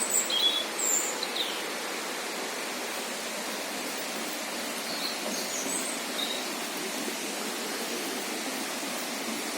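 Steady rush of flowing water from a mountain river and waterfall in a forested gorge, with a few short bird chirps in the first second or so and again about halfway.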